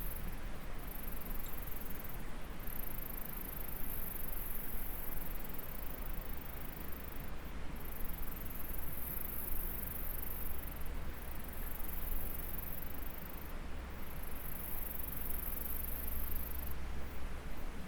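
High-pitched insect song, a steady buzz broken by short pauses every two to three seconds, over the even rush of a flowing stream.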